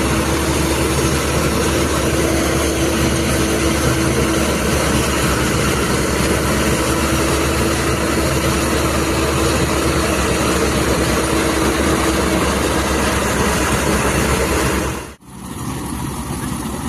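Garud Gladiator tracked combine harvester's engine running steadily with a constant drone and a held hum. About fifteen seconds in the sound drops out for an instant and comes back quieter.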